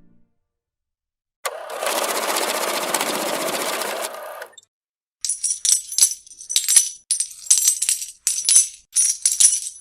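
Coins jingling, shaken or poured in short bursts about two a second, with bright metallic ringing. Before them, for about three seconds, a dense, even rustling rattle.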